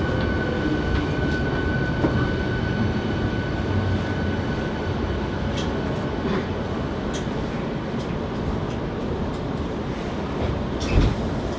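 Hankyu 7300 series electric train running, heard from inside the car: steady wheel-and-track rumble with scattered rail-joint clicks. A thin high whine fades out about four seconds in. Near the end a sharp knock is followed by a hiss.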